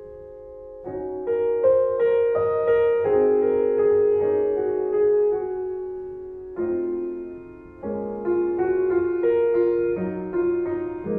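Slow, gentle solo piano music, single notes and chords struck and left to ring out.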